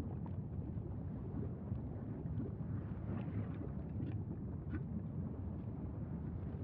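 Steady low rumbling noise of wind buffeting the microphone, with a few faint brief higher-pitched sounds.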